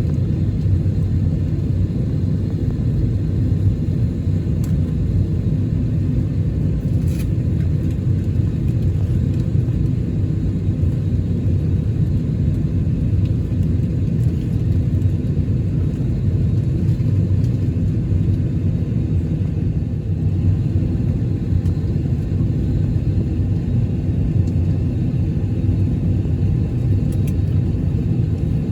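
Steady low rumble in the cabin of an Airbus A321neo during pushback, before either engine is started, with a faint click about seven seconds in.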